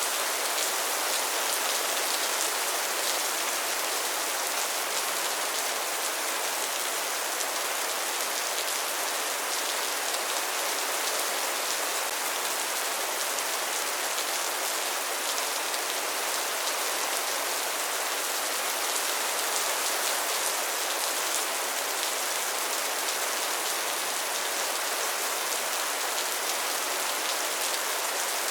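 Steady heavy rainfall, a dense even hiss of drops striking a surface with fine patters throughout and no thunder.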